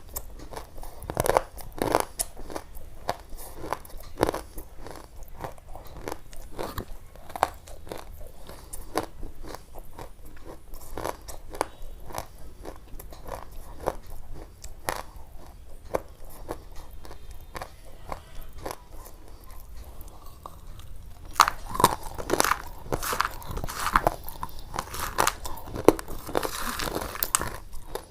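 Crunchy chewing: a run of irregular crisp clicks and crackles that grows denser and louder about three quarters of the way through.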